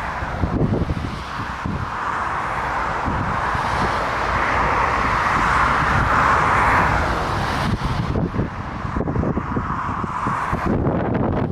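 Jet airliner engines passing, swelling to a peak about six to seven seconds in and then easing off, with strong wind buffeting the microphone.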